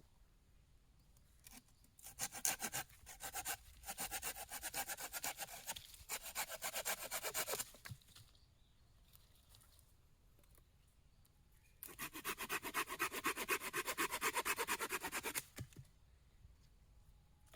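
Small hand saw cutting through wood in quick back-and-forth strokes, about four a second, in two spells with a pause of a few seconds between them.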